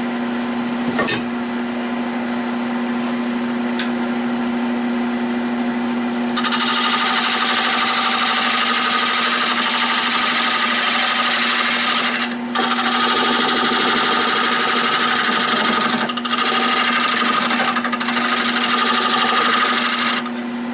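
Nova 16/24 wood lathe running with a steady hum. About six seconds in, a turning tool starts cutting the spinning oak bowl, a loud hissing scrape that breaks off briefly a few times and stops just before the end.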